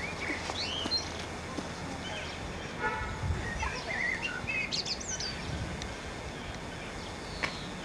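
Small songbirds chirping and singing in short phrases over a steady outdoor background hiss.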